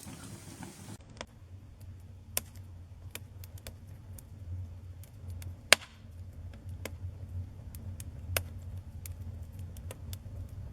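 Wood campfire crackling: irregular sharp pops over a low, steady rumble, with one loud pop about halfway through.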